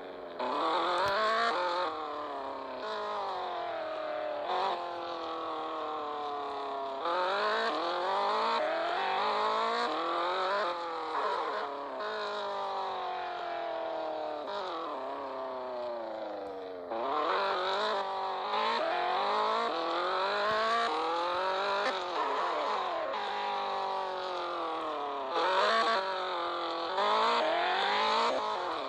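Toyota Supra's 2JZ straight-six engine under hard driving, revving up and falling back again and again, its pitch climbing and then dropping as it goes through the gears.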